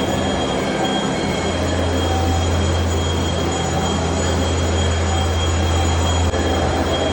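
Steady mechanical rumble with a constant low hum and a thin, steady high tone.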